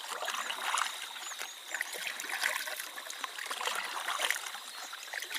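Water trickling and splashing around a paddled canoe. A steady high insect drone sounds behind it.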